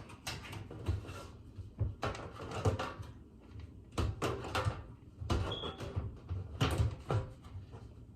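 Irregular knocks and clatters of a PC case's side panel being handled and fitted back onto the case, with a brief squeak about five and a half seconds in.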